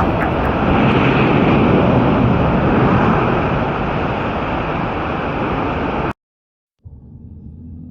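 A loud, steady rushing noise that eases a little and then cuts off suddenly about six seconds in. After a brief silence, quiet ambient music with held tones begins near the end.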